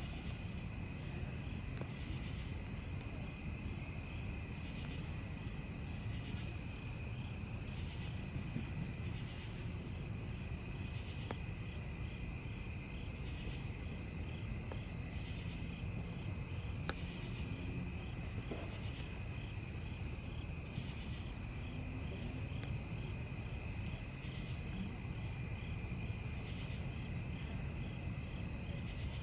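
Crickets chirping steadily in several overlapping trills, over the low crackle of a burning wood campfire. A single sharp pop from the fire comes a little past halfway.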